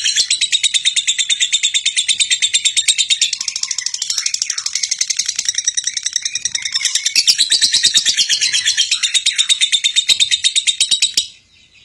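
High-pitched, rapid chirping of birds, a fast even run of notes about ten a second that goes on without pause and cuts off suddenly near the end.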